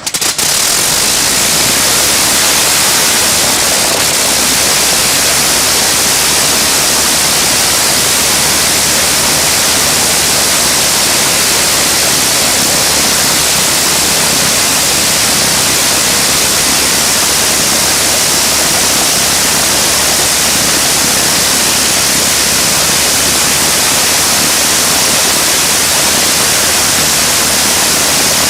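Clerget 9B nine-cylinder rotary aero engine catching at the start and then running steadily: a loud, even, dense roar with a low drone underneath.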